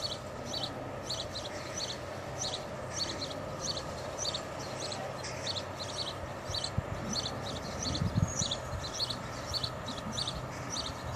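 A small bird chirping over and over, short high chirps about twice a second, over a steady low background hum. A few dull low thumps come about two-thirds of the way in.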